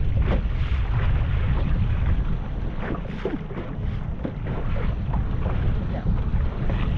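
Strong wind buffeting the microphone on an open boat, a heavy uneven rumble, with scattered clicks and knocks.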